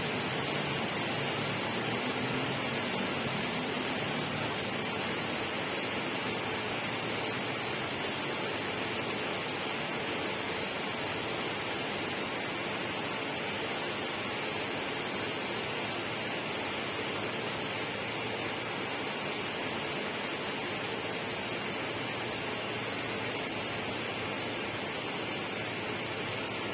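Steady, unbroken rushing of water, even in level.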